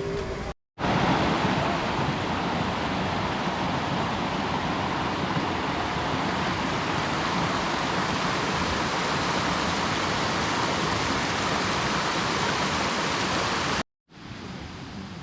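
River water rushing, a loud, steady, even hiss. It cuts in abruptly about a second in and cuts off suddenly near the end.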